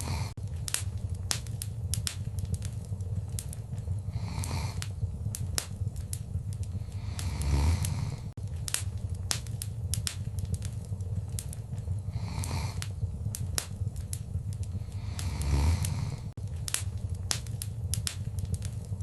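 Wood fire crackling in a fireplace: many sharp snaps and pops over a steady low rumble of the flames, with a louder swell of fire noise about every four seconds.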